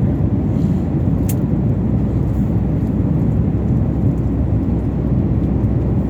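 Steady low rumble of a jet airliner's cabin in flight: engine and airflow noise heard from a passenger seat. A faint click about a second in.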